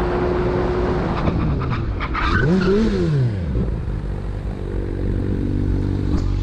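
Motorcycle running at high speed with a steady rush of road and wind noise. About two and a half seconds in, the engine note rises and then falls again within about a second.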